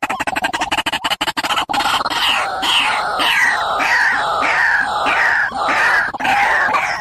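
Recorded bird calls used as a trapping lure: a fast rattling trill, then from about two seconds in a series of repeated downward-sliding call notes, two or three a second.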